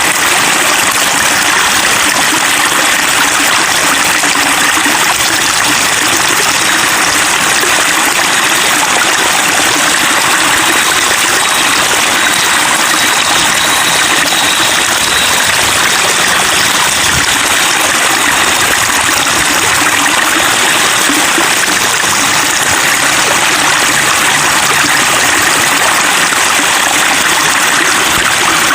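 Water running and splashing over rocks in a steady, continuous rush, like a small stream or cascade.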